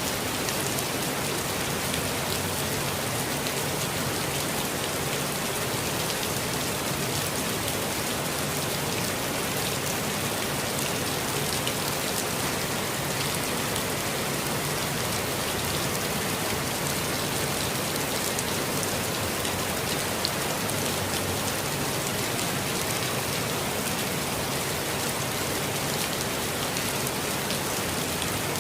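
Steady rainfall, a dense, even patter of drops landing on leaves and surfaces in a forest.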